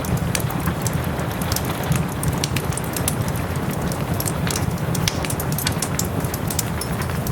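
Wood fire in a fireplace crackling, with frequent sharp pops, over a steady wash of rain.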